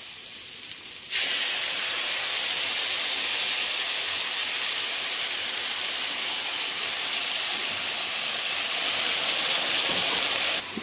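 Hot oil in a kadai sizzling loudly as ginger-garlic paste is added to frying shallots. The sizzle jumps up suddenly about a second in, holds steady, and drops back just before the end.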